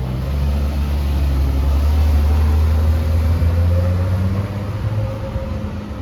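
A car engine running at low revs close by, a deep steady rumble that builds over the first couple of seconds and then eases off after about four seconds, as a car passing.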